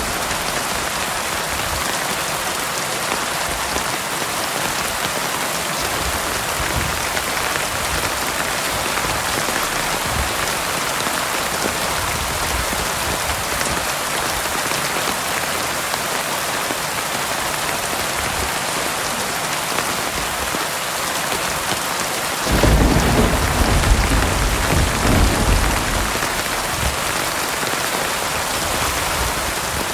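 Heavy rain falling steadily. About three-quarters of the way through, a low rumble of thunder comes in and fades over a few seconds.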